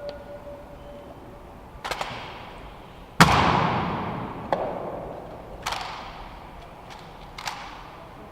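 Water jets of a musical fountain show firing in sudden bursts, each rush of spray fading out over a second or two; the loudest comes about three seconds in.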